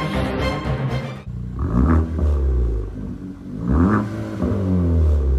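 Chevy Cruze hatchback's turbocharged four-cylinder engine revved twice at standstill, each rev rising in pitch and dropping back to idle, heard from behind at the quad exhaust tips. The first second is the end of an intro music track.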